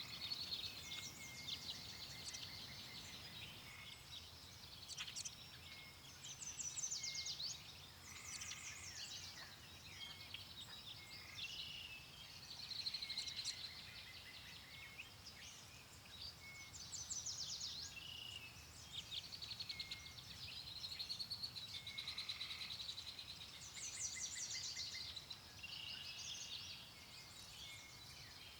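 Several birds chirping and trilling all through, overlapping calls with no pause, over a soft low rumble of wind.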